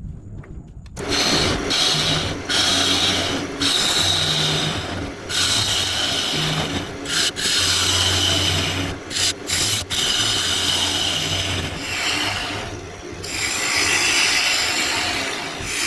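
Turning tool cutting into the inside of a spinning wooden bowl on a wood lathe, hollowing it out: a continuous rough scraping hiss from about a second in, broken by several short gaps where the tool comes off the wood, over the lathe's low steady hum.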